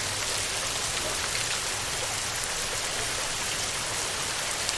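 Heavy rain falling steadily on a metal roof, a dense even hiss with scattered drop ticks.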